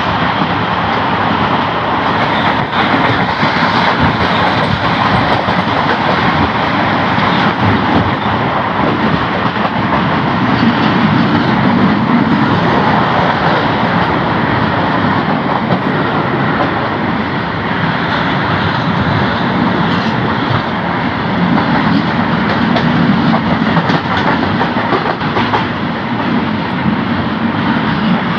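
Train running at speed beside a long freight train of covered wagons on the next track: a steady, loud rush of wheel, rail and wind noise with scattered rail clicks.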